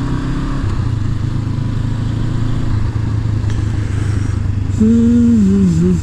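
Honda CB500F parallel-twin engine running steadily through its stock exhaust while riding. About five seconds in, a louder pitched sound that wavers up and down joins the steady drone.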